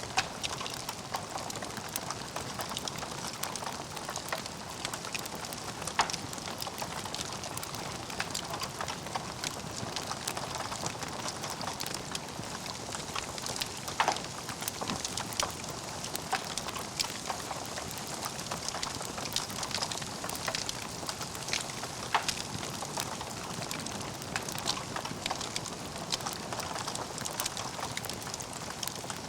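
Wood fire burning in a fireplace, crackling steadily with many small pops and a few louder snaps.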